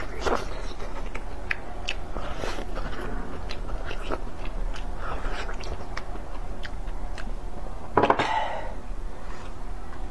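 Close-miked chewing of a thin-skinned steamed bun: wet clicks and smacks of biting and chewing. One louder, longer mouth noise comes about eight seconds in.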